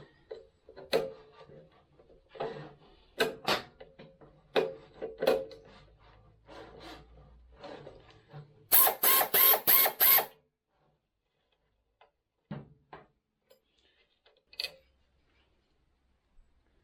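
Hand tools working on motorcycle parts during a teardown: scattered metal clicks and knocks, with a short run of about six loud rapid clicks, like a ratchet, about nine seconds in, then a few isolated taps.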